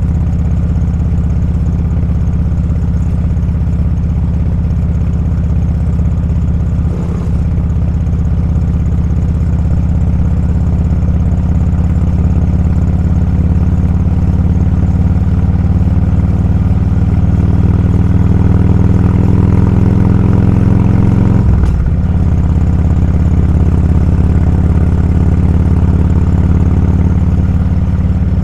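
Motorcycle engine running steadily while riding, heard from the bike. It dips briefly about 7 seconds in, its pitch creeps up through the middle, and it drops sharply about 21 seconds in.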